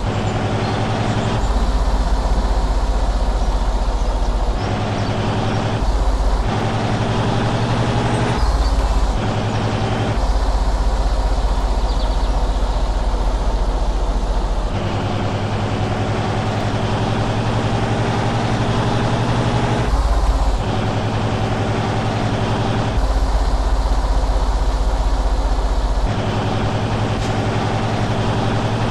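Truck engine running steadily, with a low, even drone. The sound switches abruptly between two slightly different tones every few seconds.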